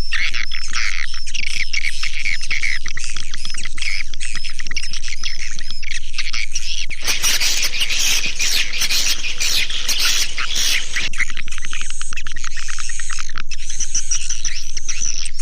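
Swiftlet calls played as a lure sound to draw swiftlets to a nest house: rapid, repeated high twittering chirps. About seven seconds in they turn to a denser, noisier chatter for about four seconds, then the chirping returns. A steady low hum lies underneath.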